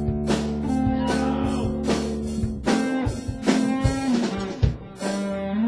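Guitar music: plucked or strummed chords with a sustained low note, thinning out about three quarters of the way through.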